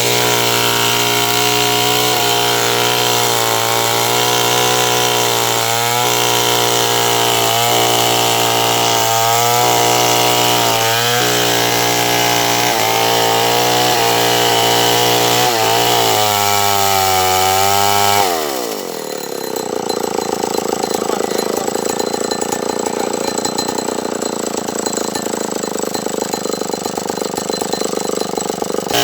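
Stihl 070 two-stroke chainsaw running at high revs while cutting sengon wood, its pitch dipping briefly again and again as the chain takes load. About 18 seconds in the throttle is let off and the engine drops sharply to a low idle.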